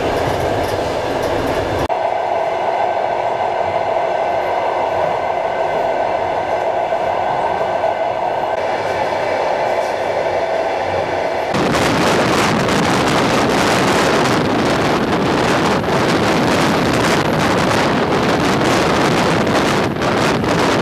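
Long-distance passenger train in motion, heard from on board. About two seconds in the sound changes abruptly to a steadier hum with a held mid-pitched tone. About twelve seconds in it changes again to a loud, even rushing noise.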